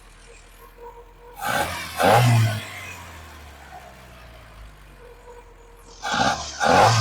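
Swapped-in VW GTI four-cylinder engine idling unevenly on three cylinders, with two short blips of the throttle, one about a second and a half in and one near the end. Number 4 cylinder is not firing.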